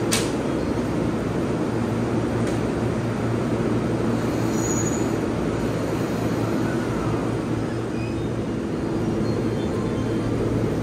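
Steady low hum of a stationary electric commuter train at the platform, its air conditioning and onboard equipment running, with a single click right at the start.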